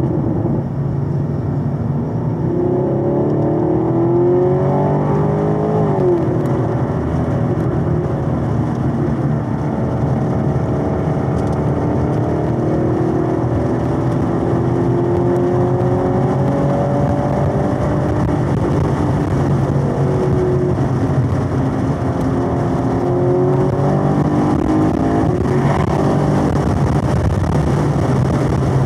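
A Chevrolet Camaro SS 1LE's 6.2-litre LT1 V8 under hard throttle, heard from inside the cabin. The engine note climbs in pitch, drops sharply at a gear change about six seconds in, then keeps rising and falling with the throttle.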